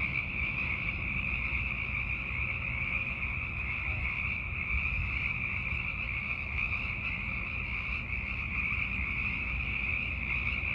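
Dense breeding chorus of Sierran chorus frogs, hundreds of males calling together to attract mates. Their overlapping calls merge into a steady, high-pitched, unbroken wall of sound.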